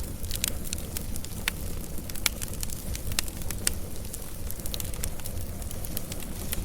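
Wood fire burning, with sharp irregular pops and crackles over a steady low rumble of the flames.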